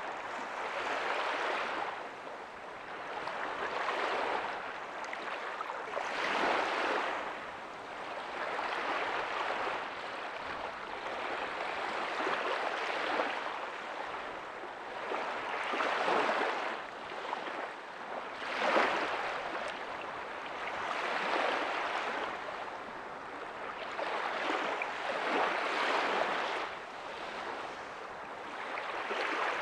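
Small ocean waves breaking softly on a beach, a steady wash of surf that swells and recedes every two to three seconds.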